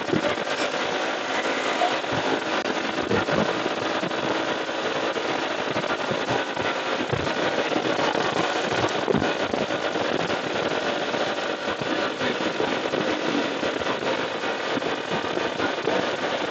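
Steady wind buffeting with a constant crackle on the microphone of a riding motorcyclist, over road and traffic noise.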